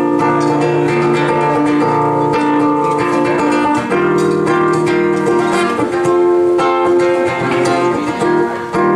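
Acoustic guitar playing chords, an instrumental break in a song.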